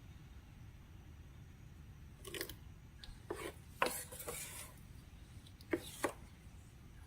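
Hands working slime-making materials: a few short scrapes and rasps, the longest about four seconds in, with several sharp clicks.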